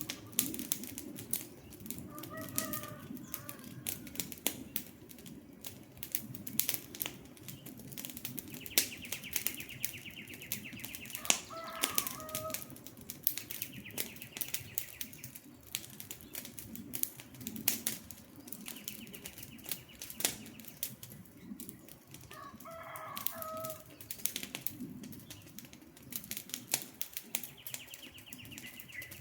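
Campfire burning: dense sharp crackles and pops over a low steady rush of flame. Forest birds call now and then: a few short calls and a rapid high trill that recurs every few seconds.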